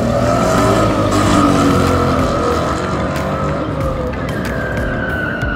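Drag-racing car's engine at full throttle, accelerating away down the strip. Its pitch climbs and drops back at a gear change about four seconds in.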